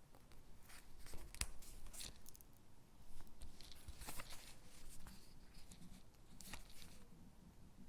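Stickers being peeled off their backing sheet and pressed onto paper cutouts: soft, irregular paper rustles and peeling sounds with light taps, close up.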